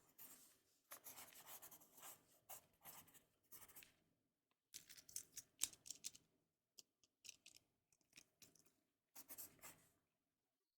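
Writing on paper close to the microphone: scratchy pen strokes in runs of several seconds, broken by short pauses. They stop shortly before the end.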